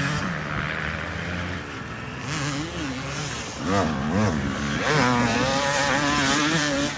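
Dirt bike engine revving up and down as it is ridden, its pitch rising and falling several times and holding higher through the second half.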